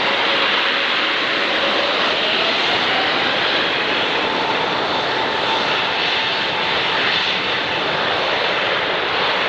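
Airbus A350's Rolls-Royce Trent XWB turbofans at takeoff thrust: a loud, steady jet roar with a faint whine slowly rising in pitch.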